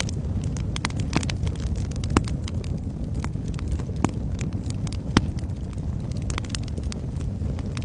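Wood fire burning in a fireplace: a steady low rumble of flames with irregular crackles and pops. The sharpest snaps come about two, four and five seconds in.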